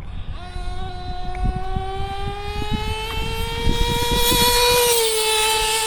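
JL MAX .28 nitro engine in a Traxxas T-Maxx RC truck screaming at full throttle on a top-speed run, its high whine climbing steadily in pitch as the truck gathers speed, then dipping slightly about five seconds in.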